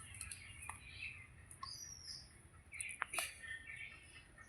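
Birds chirping faintly in the background, with short chirps that slide in pitch about two seconds in, and a few light clicks.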